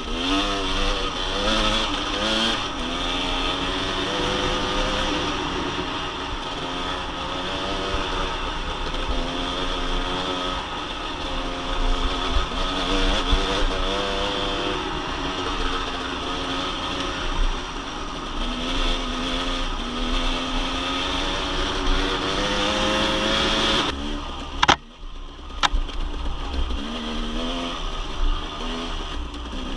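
Dirt bike engine revving up and down as it is ridden, its pitch rising and falling with the throttle over a low rumble. About 24 seconds in the engine note drops out briefly, with a couple of sharp clicks, then picks up again.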